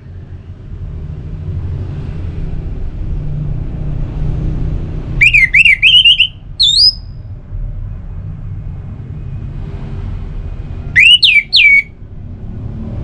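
Orange-headed thrush singing two short bursts of quick, sliding whistled notes, the first ending on a higher rising note, over a steady low background rumble.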